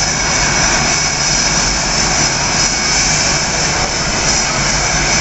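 Blue Angels F/A-18 Hornet jet engines running steadily, a loud even noise with a high whine held at a constant pitch.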